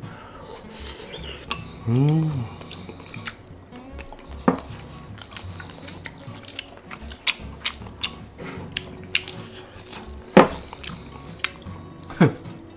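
Utensils clinking and tapping against dishes during a meal, with scattered sharp clicks throughout and a few louder knocks. A short hummed vocal sound comes about two seconds in.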